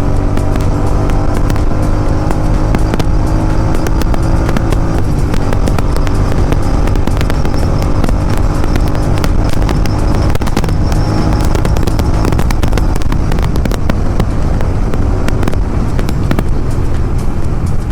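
Royal Enfield Continental GT 650 parallel-twin with an aftermarket Gursewak exhaust running on the move. Its note eases down slightly over the first few seconds. Under it runs a steady rush of wind noise and many sharp crackles.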